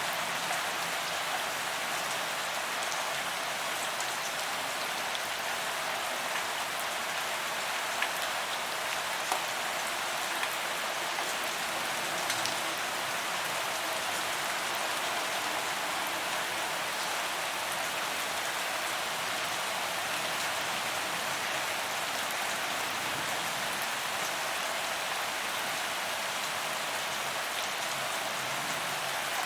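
Steady rain falling on a paved promenade, a dense even hiss with occasional louder drop ticks.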